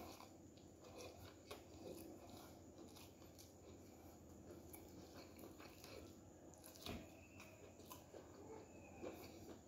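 Faint chewing and mouth sounds of a man eating chicken biryani with his hand, with scattered soft clicks and smacks, one a little louder about seven seconds in.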